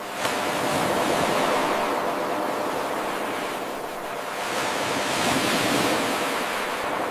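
Ocean waves washing onto a shore: a wash of surf noise that swells, eases off around the middle and swells again. About a quarter second in there is a short click and sudden rise in level where the 8-second wave loop starts over.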